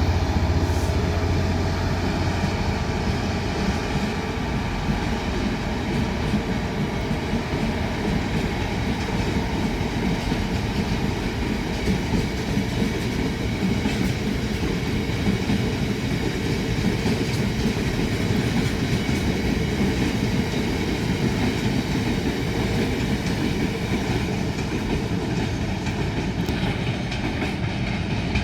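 Freight train led by a Class 66 diesel locomotive (EMD two-stroke V12) pulling away at full power. The engine's deep throb fades about two seconds in, leaving a long string of freight wagons rolling past with a steady clatter of wheels over the rail joints.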